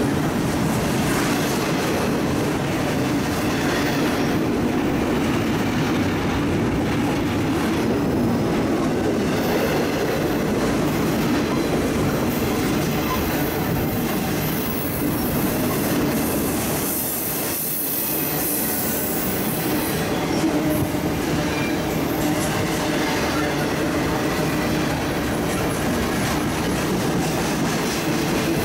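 A CSX intermodal freight train's cars rolling past at speed, with a continuous rumble and clatter of steel wheels on rail. High wheel squeal comes through in the middle stretch.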